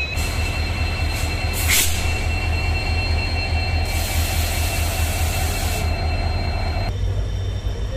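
Passenger train running with a steady low rumble, a short hiss just under two seconds in and a longer hiss lasting about two seconds from about four seconds in.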